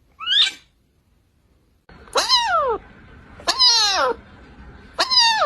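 Cat meowing: a short high call, then after a pause three longer meows, each falling in pitch.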